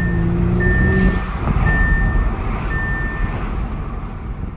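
2019 Audi S5's turbocharged 3.0 TFSI V6 pulling through an Injen cold air intake, heard with the windows down; the engine note rises over the first second, with plenty of intake airflow noise. A high beep repeats about once a second, four times, and the sound fades out near the end.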